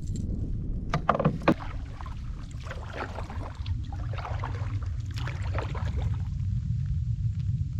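Canoe out on the water: paddle strokes and water splashing over a steady low rumble, with a few sharp knocks about a second in.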